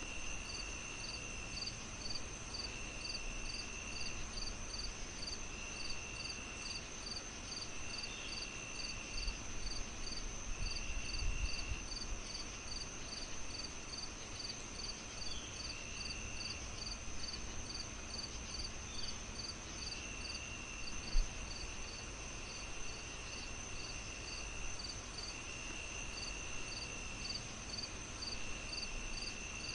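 Crickets chirping steadily in a night-insect chorus: one high, even pulse about twice a second, a longer trill that comes and goes every second or two, and a constant high tone underneath, all over a soft hiss. One sharp pop stands out about two-thirds of the way through.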